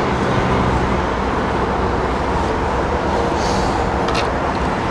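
Steady low rumbling background noise, with two faint clicks near the end.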